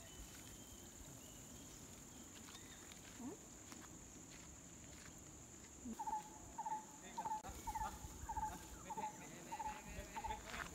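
Steady high-pitched insect drone. About six seconds in, a short bird call starts repeating about twice a second.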